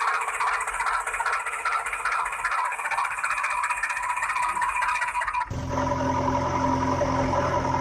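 A rattling mechanical whir with a fast, even pulse. About five and a half seconds in it cuts abruptly to a steady, low engine hum.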